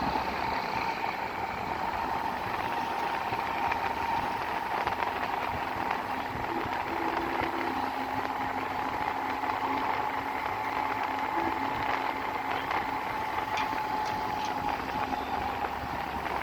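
A road vehicle on the move: a steady rumble and road noise with a thin, steady whine all through.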